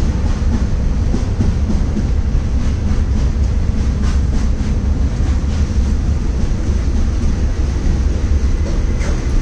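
Passenger train running slowly on the track, heard from an open coach doorway: a steady low rumble with a few faint wheel clicks over rail joints about four to five seconds in.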